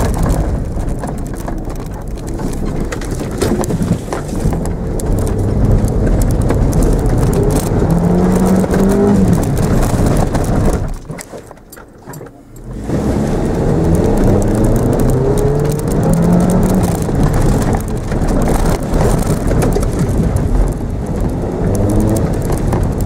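Mitsubishi Mirage engine revving hard and easing off again and again, heard from inside the cabin, with tyre and road noise over grass. The engine pitch climbs in several sweeps. The sound drops away briefly a little past the middle, then the revving picks up again.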